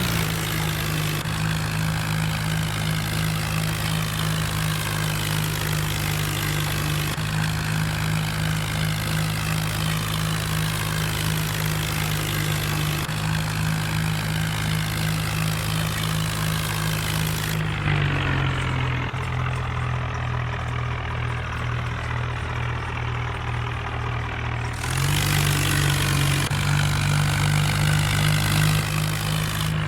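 Swaraj tractor's diesel engine running steadily at a constant speed. About eighteen seconds in it drops to a lower, quieter note, then picks back up to the higher note about seven seconds later.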